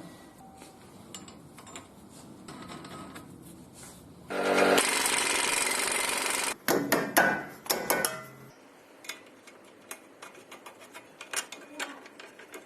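Hand-tool work on a car's front wheel hub assembly. A steady noise lasts about two seconds from a little after four seconds in, then come a run of sharp metal knocks and clatter, and after that scattered small clicks.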